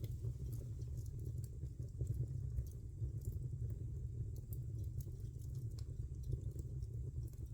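Wood fire in a fireplace crackling, with small irregular pops and snaps over a steady low rumble of the burning fire.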